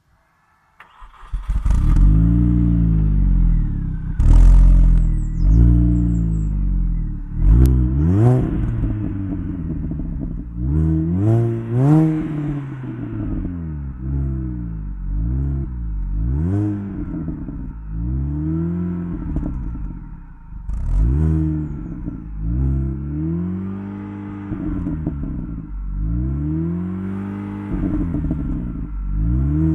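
Mini Cooper S engine through its stock exhaust, revved over and over: after about a second of near silence it comes in, then the pitch climbs and falls again and again in quick throttle blips.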